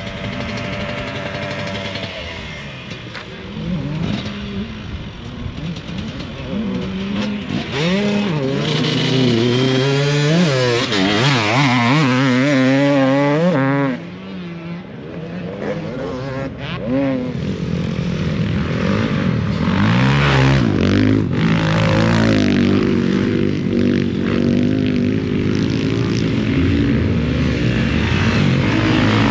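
Motocross dirt bike engines running, their pitch rising and falling repeatedly as the throttle is opened and closed. The sound drops away suddenly about halfway through, then builds again.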